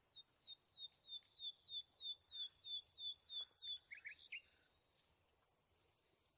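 A bird calling a fast series of about a dozen short, high, identical notes, about three a second, then a couple of lower notes about four seconds in, over faint outdoor background.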